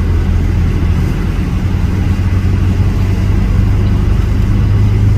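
A car driving at a steady speed: a steady low engine and road drone with no changes.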